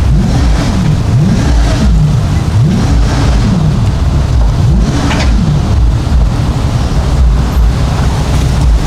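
An engine revved up and down again and again, its pitch climbing and dropping about every second, over a steady low rumble of wind on the microphone.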